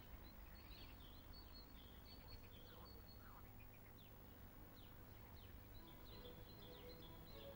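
Near silence: faint quiet ambience with small birds chirping, many short high chirps.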